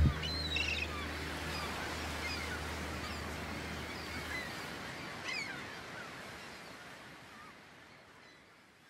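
Outdoor ambience with a steady hiss and birds chirping now and then, slowly fading out.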